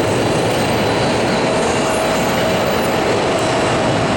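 Boeing 777-200 airliner's twin jet engines: a steady, loud rumbling noise with a faint steady whine.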